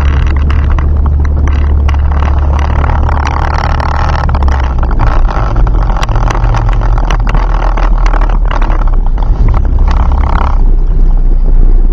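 Turbocharged Ford Focus ZX3's four-cylinder engine heard from inside the cabin, running at low speed with a steady low drone and frequent light clicks and rattles as the car creeps forward. The drone drops near the end as the car comes to a stop.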